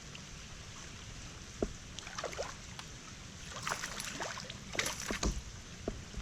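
Water splashing and sharp knocks at the surface beside a kayak as a hooked bass is fought and brought in, with the loudest splashes about four and five seconds in. A steady creek trickle runs underneath.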